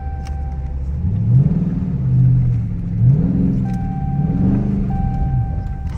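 Dodge Scat Pack's 6.4-litre HEMI V8 revving up and falling back about three times in a row. A steady high tone sounds on and off over it in the second half.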